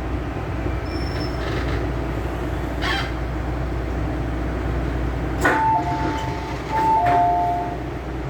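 MTR M-Train electric multiple unit running on the Tsuen Wan Line: a steady rumble of wheels on track, with a sharp knock about three seconds in and another about five and a half seconds in. Short squealing tones follow the second knock, twice in the second half.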